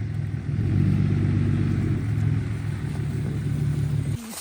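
A car engine running steadily with a low hum, which stops abruptly near the end.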